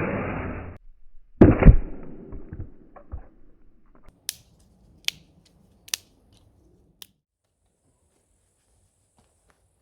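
Dry sticks being broken by hand for firewood: a rustling scrape, then a heavy crack about one and a half seconds in with a few smaller knocks, followed by four sharp snaps under a second apart.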